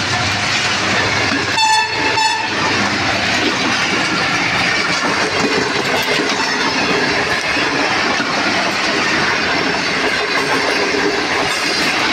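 Express passenger train passing at speed, its wheels clattering steadily over the rail joints, with a short high horn note about two seconds in.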